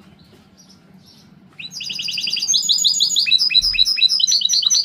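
A goldfinch × canary hybrid (mixto) singing. After a quiet second and a half, a rapid trill of high repeated notes breaks out, then runs into a fast string of short falling whistles.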